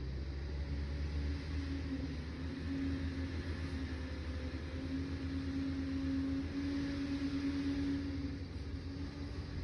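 Liebherr 746 crawler dozer's diesel engine running steadily, a low drone. A higher, steady whine comes in after about a second and a half and drops away near the end.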